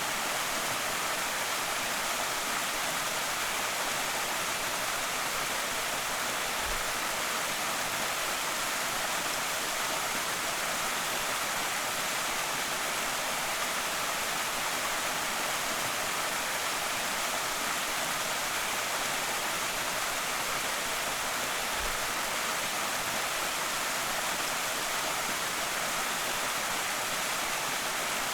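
Small creek waterfall: a steady, even rush of falling water.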